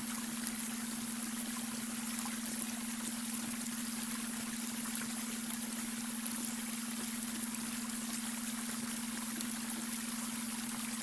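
Babbling brook water flowing and trickling steadily, with a steady low hum tone underneath: the beta brainwave tone layered over the water.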